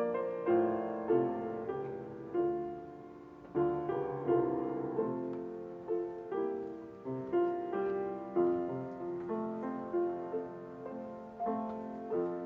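Piano playing a slow instrumental piece, each note or chord struck and left to fade, about one every half second to second.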